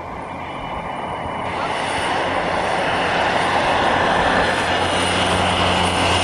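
De Havilland Canada DHC-3 Otter single-engine aircraft running as it lands on skis, growing louder over the first few seconds. A steady low engine hum comes up near the end.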